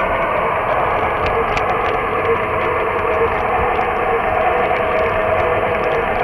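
Lionel O gauge model train running on Super O track, heard close up from on board: a steady motor whine with scattered light clicks from the wheels on the rails.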